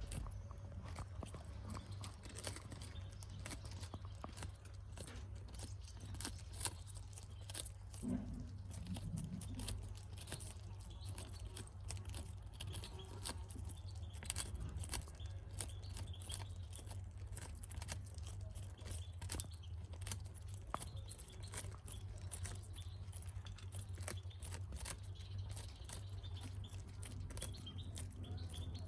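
Budgies pecking and nibbling at food: a run of small, irregular clicks and crunches over a steady low hum.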